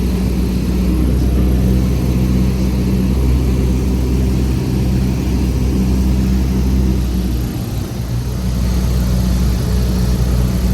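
Cessna 172's piston engine and propeller running steadily, heard inside the cabin, with a brief dip in loudness about eight seconds in.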